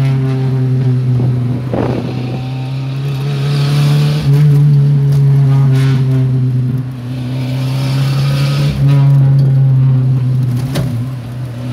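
Fiat Uno's four-cylinder engine with a loud open exhaust, droning at fairly steady revs while driving. It gets louder with a step about four seconds in and again near nine seconds.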